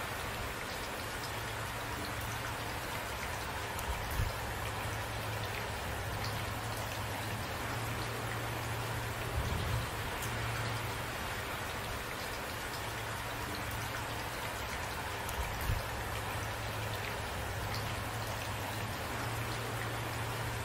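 Steady rain falling, with a few brief low thumps about four, nine and a half and fifteen and a half seconds in.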